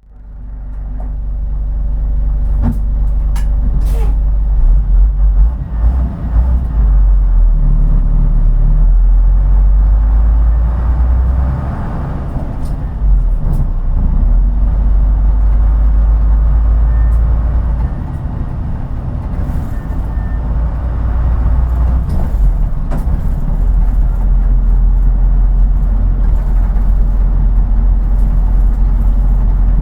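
Diesel engine of a route bus, heard from inside the cabin while the bus drives: a steady low rumble that swells and eases off a few times as the bus pulls and slows. A few sharp clicks sound about three to four seconds in.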